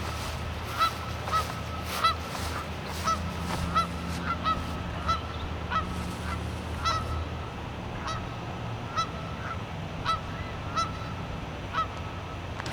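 Geese giving short, regular honks, about one to two a second, agitated by a dog close by.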